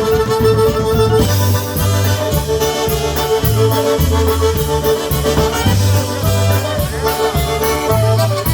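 Live polka band playing an instrumental break, with accordion melody over a steady oom-pah bass and drum beat.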